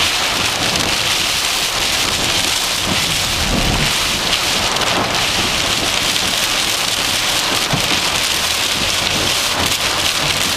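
Heavy thunderstorm rain pouring down in a steady, loud hiss, with strong wind rumbling underneath.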